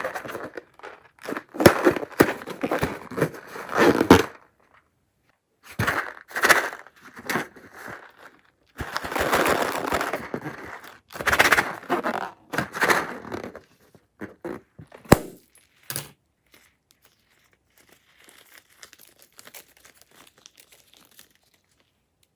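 Crunchy slime being squished and worked by hand, crackling and crinkling in bursts of a few seconds with short pauses between them, plus a couple of sharp clicks; it turns faint toward the end.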